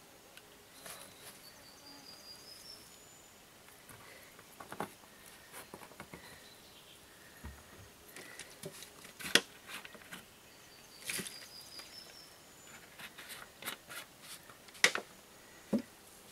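Irregular sharp clicks and snaps over a faint background. Twice a short run of high chirps rises in pitch.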